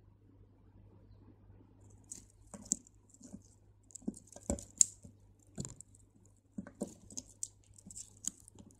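Small crystal beads clicking and rattling against each other, with light rustles, as they are handled and threaded onto the beading line. The clicks come irregularly, starting about two seconds in, over a faint steady hum.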